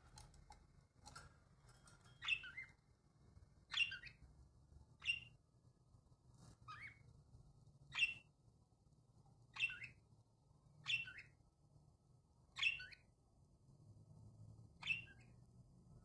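A bird giving short, sharp chirps one at a time, about ten of them, each roughly a second and a half after the last.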